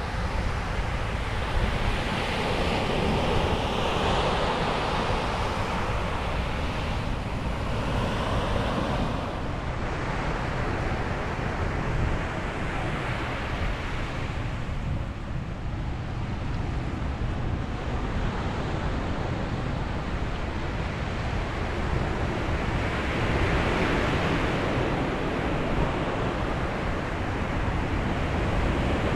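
Ocean waves breaking on a beach, the surf swelling and easing in several broad surges, with wind rumbling on the microphone.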